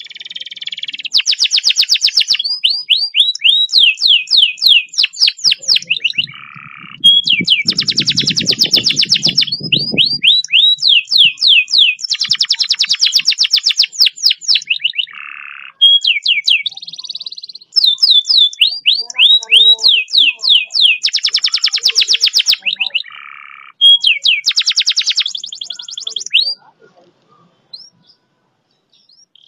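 Domestic canary singing long, fast rolled trills: rapid strings of repeated sweeping notes in phrases broken by short pauses. The song stops a couple of seconds before the end.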